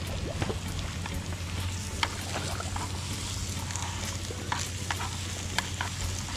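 Banana frying in a pan: a steady sizzle with frequent sharp pops and crackles.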